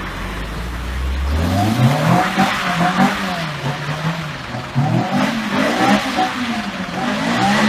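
Sports car engine being revved hard, its pitch climbing over the first two seconds and then rising and falling repeatedly, with a dip about five seconds in before it climbs again, along with tyre noise.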